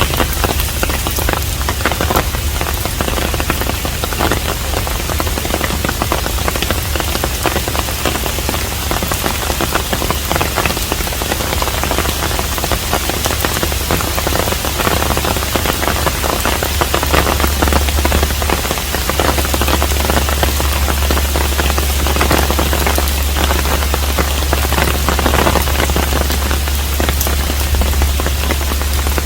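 Steady rain falling around a Korean hanok, an even patter dense with individual drops, over a constant low rumble.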